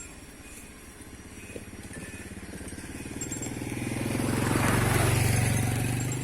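A motorcycle engine passing by, growing louder to a peak about five seconds in, then fading.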